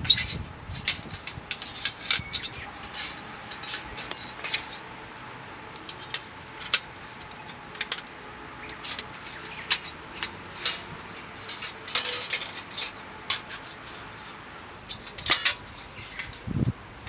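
Light metal camping gear being handled: irregular sharp metallic clinks and short scrapes, a dozen or more over the span, with a thicker cluster of scraping about four seconds in and a louder clink a little past fifteen seconds.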